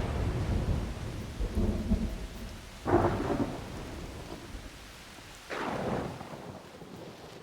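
Thunderstorm: rain with rumbling thunder. There are sudden claps about three seconds in and again about five and a half seconds in, and the storm fades toward the end.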